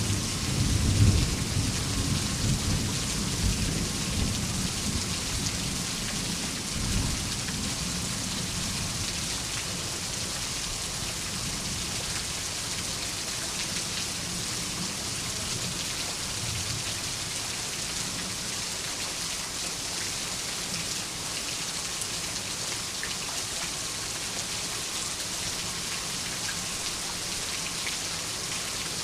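Steady rain falling, with a low thunder rumble at the start that fades away over the first several seconds.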